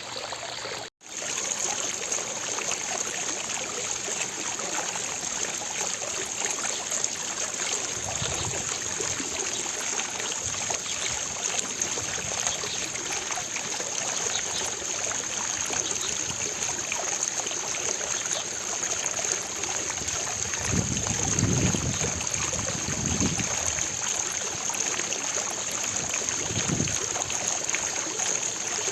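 Fountain water splashing steadily into its basin, an even rushing and trickling. The sound cuts out for an instant about a second in, then resumes slightly louder.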